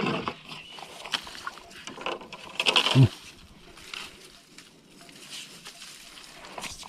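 Handling noises on a small fishing boat: scattered knocks and rustles, with a short vocal exclamation just before three seconds in, then quieter with occasional small clicks.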